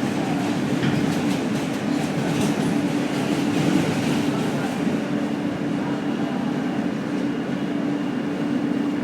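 Subway train running on the rails: a steady rumble with a low hum. Faint rail clicks come through in the first few seconds.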